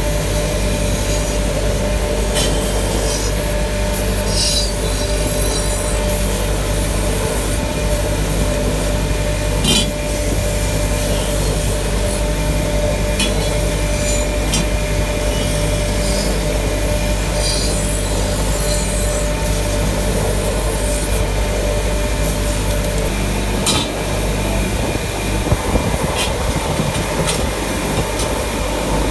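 Workshop machinery running steadily with a low hum, overlaid with metal rubbing and scraping and scattered sharp metallic clicks; the low rumble changes near the end.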